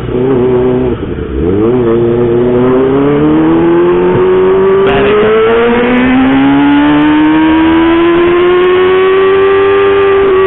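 Kawasaki Ninja ZX-25R's 250 cc inline-four running through a loud homemade aftermarket exhaust while riding. The engine note dips and climbs about a second and a half in, then rises steadily with acceleration. It drops at a gear change about six seconds in, then climbs slowly and levels off.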